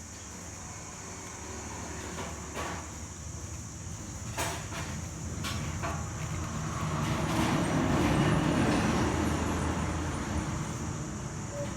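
A low rumble that builds up, peaks about eight seconds in and then dies away, with a few sharp clicks over it.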